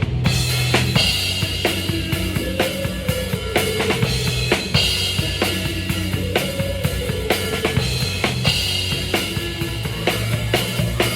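Live rock band playing: a drum kit keeps a steady beat with bass drum and snare, under a bass line and a wavering melody line.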